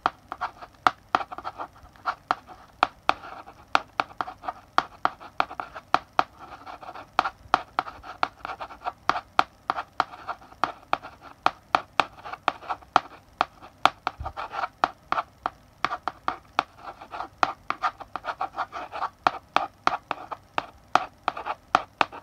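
Chalk writing on a blackboard: quick sharp taps as the chalk strikes the board, several a second, with short stretches of scraping strokes between them.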